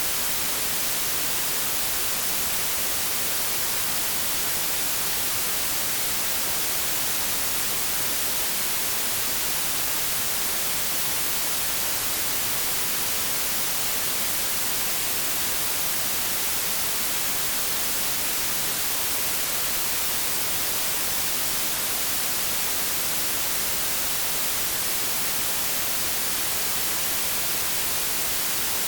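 White noise: a steady, even hiss with no changes.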